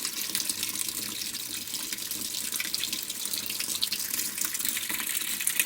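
Water running steadily into a front-loading washing machine through its water inlet valve, a continuous hiss. The valve no longer shuts: water flows in by itself whenever the supply is open.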